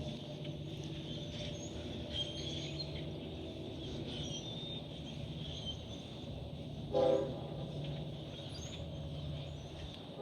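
A steady low engine drone with birds chirping over it, and a brief loud call of a few pitched notes about seven seconds in.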